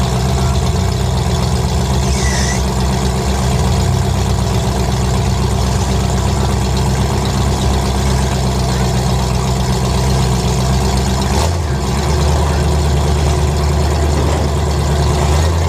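Engines of 1980s demolition derby cars idling, loud and steady; about eleven and a half seconds in the low drone drops out briefly and settles at a different pitch.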